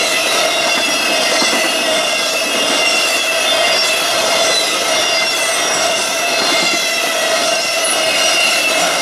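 Intermodal freight train of truck trailers and containers on flatcars rolling past close by: a steady, loud noise of steel wheels on rail, with thin high ringing and squealing tones laid over it.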